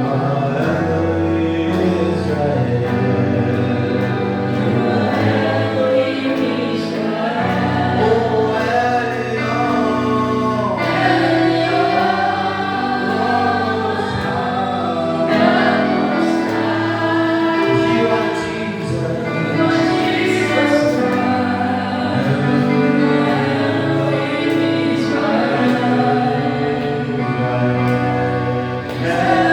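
Gospel worship music: a choir sings together over a sustained instrumental backing.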